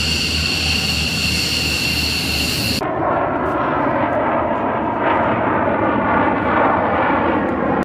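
Aircraft turbine engine noise. A loud, steady high-pitched whine over a low hum cuts off suddenly about three seconds in. A steady, broad jet roar takes its place.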